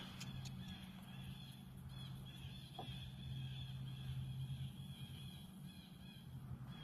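Faint outdoor ambience: a steady chorus of high, wavering animal calls over a low steady hum.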